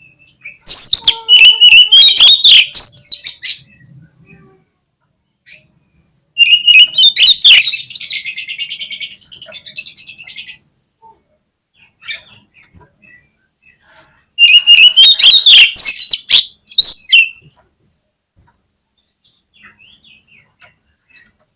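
Oriental magpie-robin (kacer) singing in three loud bursts of rapid, high chattering notes, separated by pauses of a few seconds.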